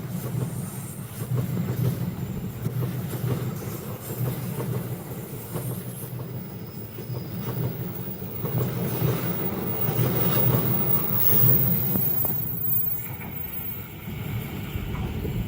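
A passenger train running past, its wheels clattering over the rails in an uneven, pulsing rhythm.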